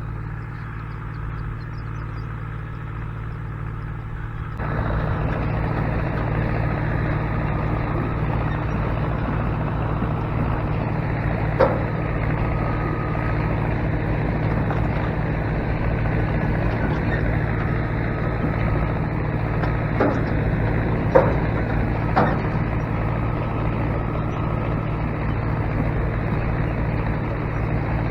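Case 430 tractor's engine running steadily while cutting road, getting louder about four and a half seconds in. A few sharp knocks come through around the middle and about two-thirds of the way through.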